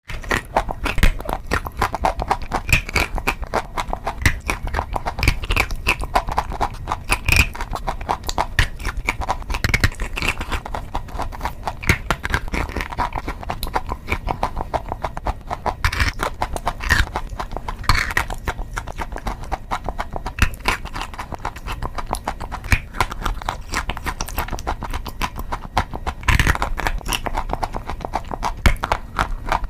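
Close-miked biting and chewing of wet chalk: a dense, continuous run of crunchy, crumbling crackles, many per second.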